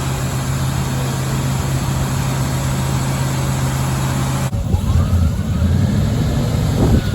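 Old Chevy 350 small-block V8 in a farm truck idling steadily; about two-thirds of the way through, the sound changes abruptly to a deeper, more uneven engine sound.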